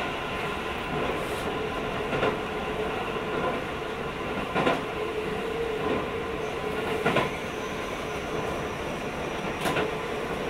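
Inside a Keio 5000 series electric train car running along the line: a steady running rumble with a steady hum, and sharp wheel clicks about every two and a half seconds.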